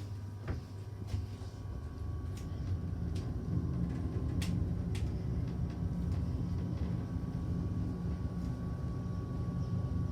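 Kone M-Series traction elevator car travelling upward, heard from inside the cab: a steady low hum that grows louder about three and a half seconds in, with a few light clicks and a faint steady high tone.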